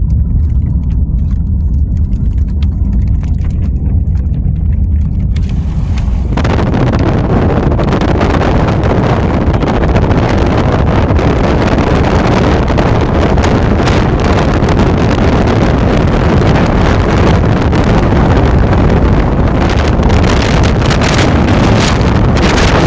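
Strong wind buffeting the microphone. A heavy low rumble at first becomes a loud, even rush across all pitches about six seconds in.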